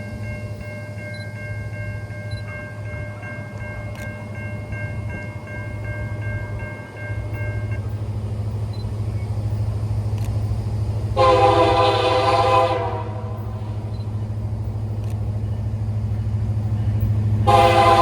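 Diesel locomotive's multi-chime air horn sounding two blasts of about a second and a half each, about six seconds apart, over the steady low rumble of the train.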